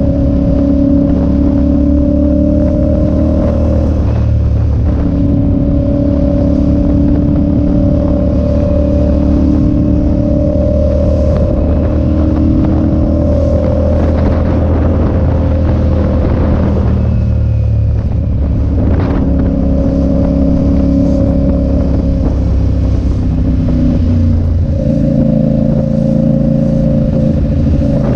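Motorcycle engine running at riding speed, its note stepping down and up a few times, with steady wind rush on the rider's microphone.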